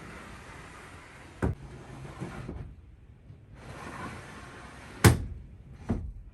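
Typhoon wind and rain rushing in two gusts, with the house's storm shutters or doors banging three times; the loudest bang comes about five seconds in.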